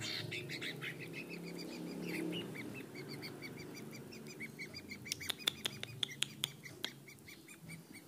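A small bird chirping in a fast, even series at one pitch, about four chirps a second, with a cluster of sharp clicks about two-thirds of the way through.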